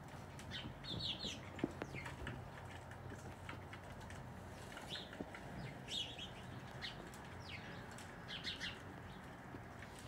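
Small birds chirping: short, high, downward-sweeping chip notes, some single and some in quick runs of three or four, over a steady low hum.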